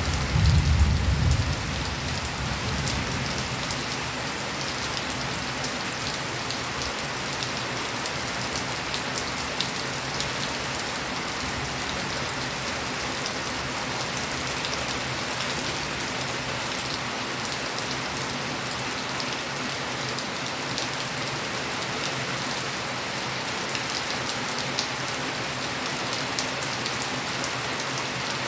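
Steady heavy rain falling, an even hiss flecked with individual drops ticking on a surface. A brief low rumble comes in the first second or two.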